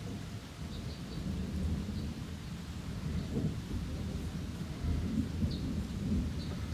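Rain falling in a thunderstorm, with a low, continuous rumble of thunder that swells and fades slightly.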